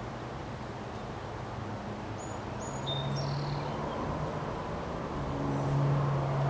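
Wind blowing steadily in a windstorm. A few short, high bird chirps come about two to three seconds in, and a low engine-like hum, as of a passing vehicle, swells twice, loudest near the end.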